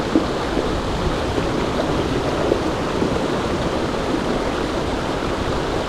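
A river running over rocks: a steady rush of flowing water.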